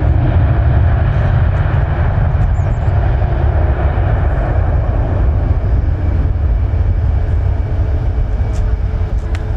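Jet airliner engine noise: a loud, steady low rumble that slowly fades.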